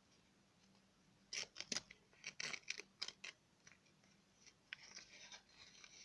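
A quick run of sharp snipping clicks, starting about a second in and lasting about two seconds, followed by softer scratching near the end.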